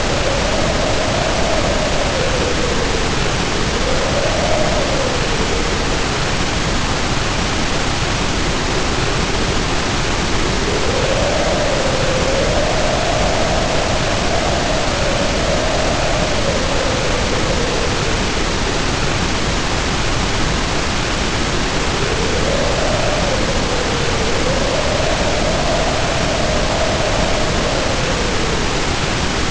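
Heavy rain pouring steadily, with wind howling over it in three long gusts whose pitch rises and falls.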